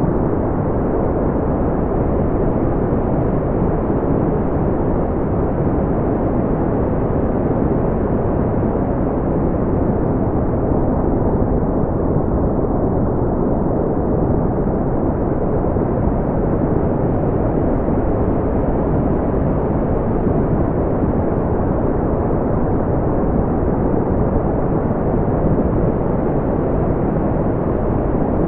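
Steady, smoothed brown noise: a deep, even rumble-like hiss weighted to the low end, with no rhythm or change.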